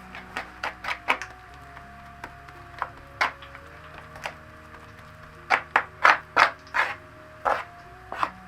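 Knife chopping on a wooden board: irregular sharp knocks, in a quick run of strikes about five and a half to seven seconds in.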